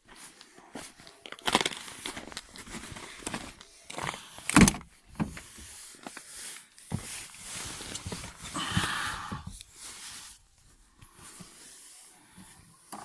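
Irregular knocks, clicks and rustling handling noises, with one loud thump about four and a half seconds in; no engine is heard running.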